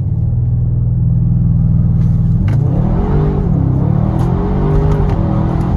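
Audi RS6's twin-turbo V8 engine running at a steady pitch, then revving up and down several times from about two and a half seconds in.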